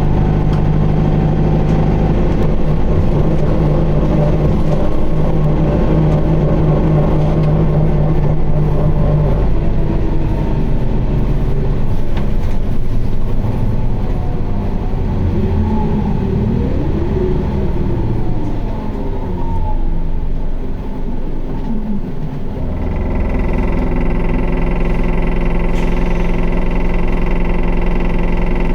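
Isuzu QDG-LV290N1 city bus heard from inside: its diesel engine runs steadily under way, then gliding tones rise and fall as the sound eases off through the middle. About 23 seconds in it settles into a steady idle with a high tone. This is a bus noted for an abnormal noise and heavy vibration.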